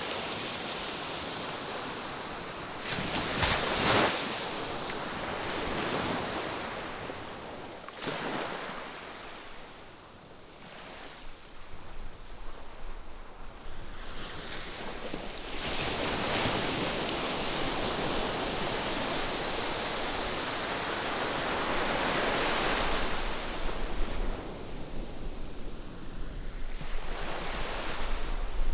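Ocean surf breaking in the distance, a steady wash that swells and falls away as successive waves come in.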